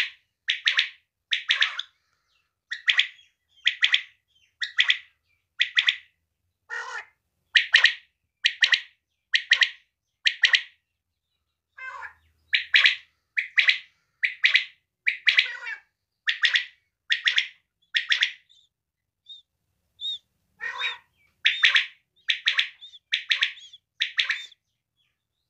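Female quail calling: a long series of short, sharp calls, about one a second, with two brief pauses along the way.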